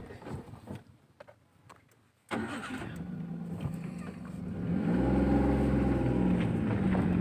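Car engine heard from inside the cabin. After a few faint clicks it starts abruptly about two seconds in and runs, then revs up about halfway through, its pitch rising and falling.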